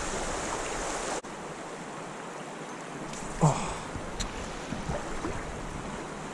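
Steady rush of flowing creek water with wind. It drops suddenly in loudness about a second in, and there is a brief falling sound about three and a half seconds in.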